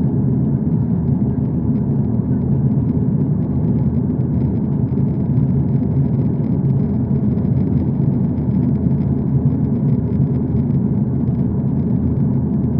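Aeroplane noise: a steady, loud low rumble that does not change.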